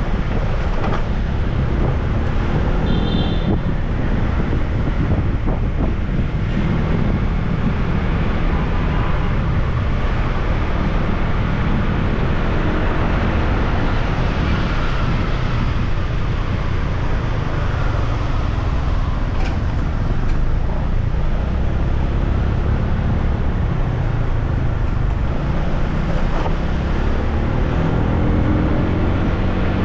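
Motorbike riding along a road: the engine runs steadily under wind rushing over the microphone and surrounding traffic noise. A brief high-pitched tone sounds about three seconds in.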